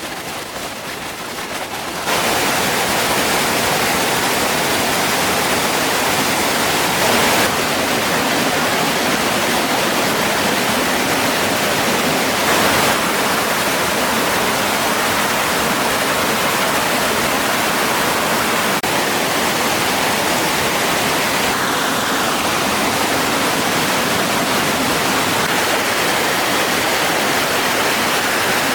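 Steady rushing of flowing water, like a stream or small waterfall, which grows louder about two seconds in and then holds even.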